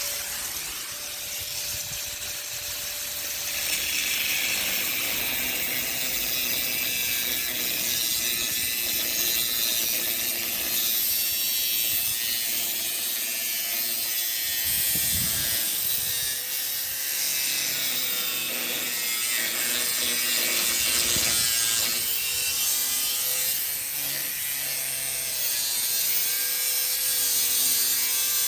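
Handheld power tool cutting steadily through material: a continuous hiss with a faint motor hum underneath.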